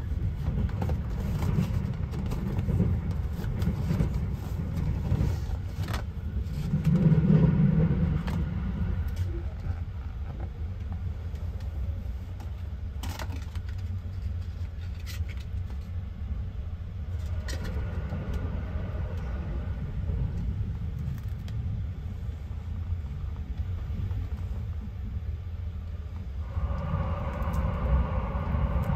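Steady low rumble of a sleeper train running, heard from inside a compartment, swelling louder about seven seconds in. Over it come scattered clicks and crinkles of a bento box's packaging and plastic lid being handled.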